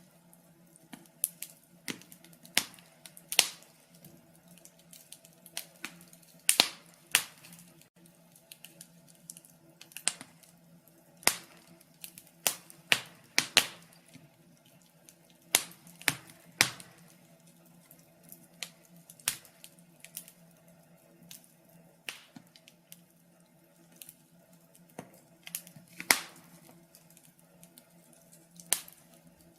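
Wood fire burning in a fireplace, crackling and popping in irregular sharp snaps, several clearly louder than the rest, over a faint low steady hum.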